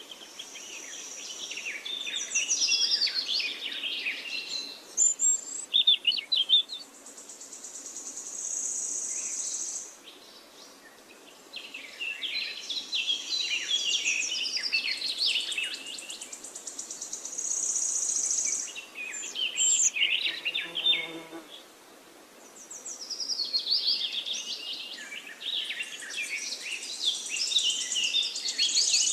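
Small birds singing: long warbling phrases of rapid chirps mixed with high buzzy trills, coming in bouts of several seconds with brief pauses between.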